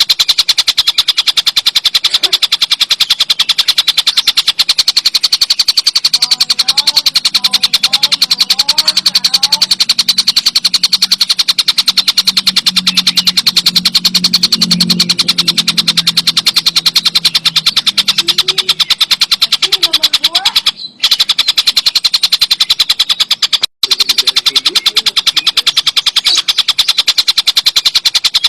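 Tengkek buto, a kingfisher, giving a loud, continuous rattle of very fast clicks. The rattle breaks off briefly twice near the end.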